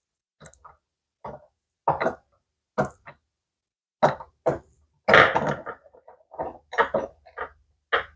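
Small parts and hand tools being handled while an RC monster truck's suspension arms are fitted: a run of short, irregular knocks and clatters, busiest about five seconds in.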